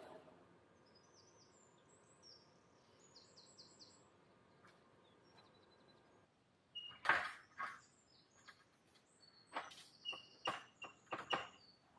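Faint bird chirping with short high notes, then a series of sharp clicks and knocks starting about halfway through, the loudest one first.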